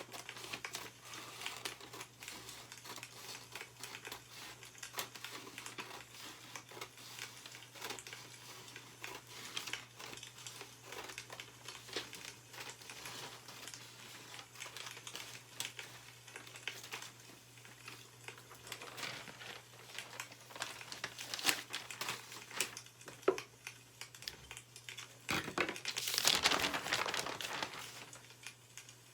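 Newspaper paper rustling and crinkling as it is handled, with scattered small crackles throughout and a longer, louder rustle near the end.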